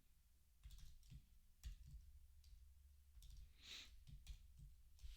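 Faint computer keyboard typing: scattered, uneven key clicks, with a soft breath about three and a half seconds in.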